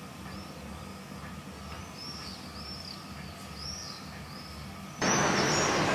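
Small birds chirping, short arched calls repeated many times, over a low steady city hum. About five seconds in, a much louder steady rushing noise cuts in suddenly.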